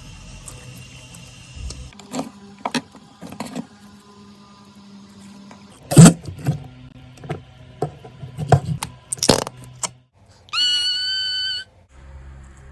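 Slime-like putty being handled: irregular squishing clicks and crackles, with one loud pop about six seconds in. Near the end a steady high tone sounds for about a second and cuts off.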